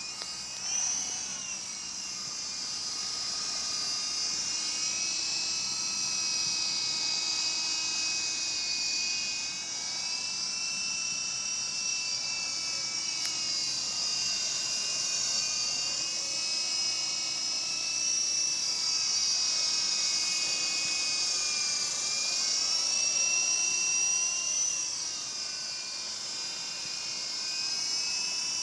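Electric motor and rotor of a small Feilun FX059 RC helicopter, running with a high whine. Its pitch rises and falls gently as the throttle changes, with brief lifts just after the start and again about three quarters of the way through.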